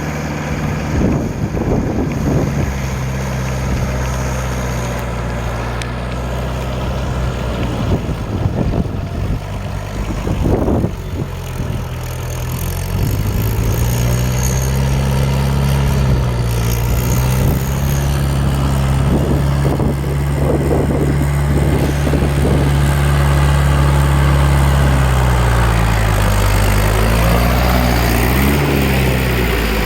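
Trakstar 545 tractor's diesel engine running steadily while ploughing a field. Its pitch rises about twelve seconds in and dips briefly near the end, with scattered knocks over the engine note.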